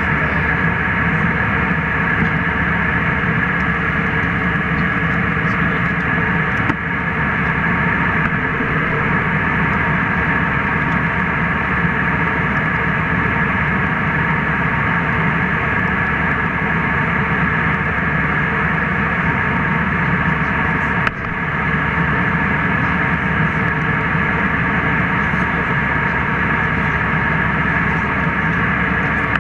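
Steady jet airliner cabin noise in flight: a constant rush of air and engine drone with a steady hum.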